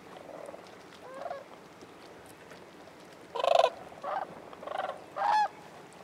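Sandhill cranes calling: a faint rolling call about a second in, then a burst of loud rattling calls from about three and a half seconds, the first the loudest, followed by three shorter ones.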